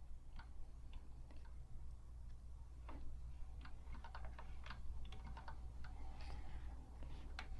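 Faint, irregular light clicks and ticks of small metal parts in a Singer 223 sewing machine's head mechanism being handled and worked while oil is applied to its moving parts.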